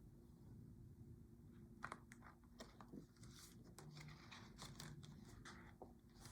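Near silence with faint paper rustles and small clicks, the pages of a picture book being handled and turned, over a faint low room hum.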